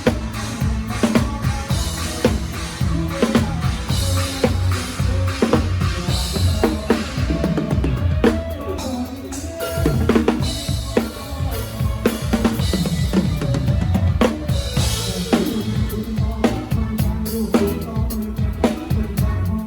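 Live drum kit played with a band: bass drum and snare hits in a steady groove, with cymbal crashes every couple of seconds, over the band's bass and other instruments.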